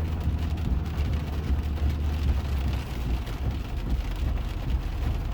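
Steady low rumble of a car driving on a wet road, heard from inside the cabin, with a hiss of rain over it.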